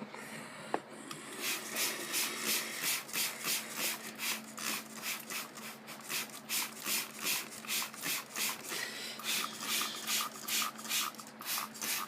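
Rotating cloth brushes of a Ryko Soft Gloss friction car wash rubbing across the car, a rhythmic swishing at about three strokes a second that starts a second and a half in, after a single sharp click.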